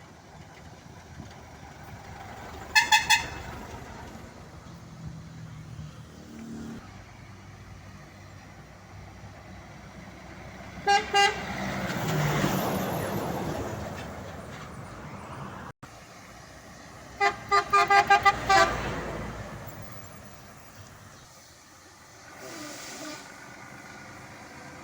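Truck air horn of the 'maritime' kind on a Scania, sounded in three bursts of quick short blasts, the last a rapid string of about seven toots. Between the bursts a truck's engine and tyres swell and fade as it drives past.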